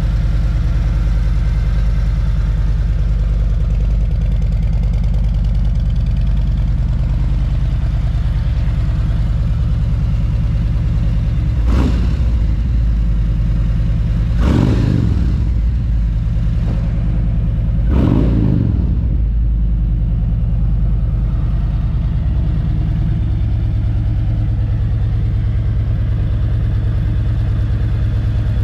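2017 Harley-Davidson Road King's Milwaukee-Eight V-twin idling through a Vance & Hines exhaust, blipped three times near the middle, each rev rising sharply and falling straight back to idle.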